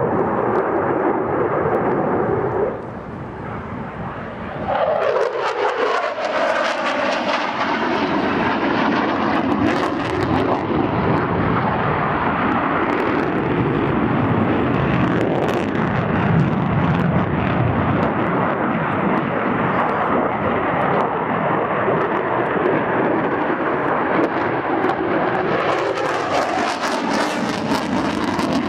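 F-16 fighter jet engine noise during a display pass: a continuous loud jet roar that dips briefly about three seconds in, then swells with a sweep in pitch as the jet goes by, with crackling at the loudest moments and again near the end.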